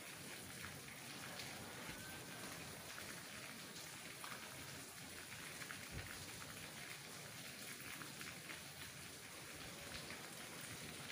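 Steady rain falling on tree leaves, an even hiss with scattered individual drops ticking.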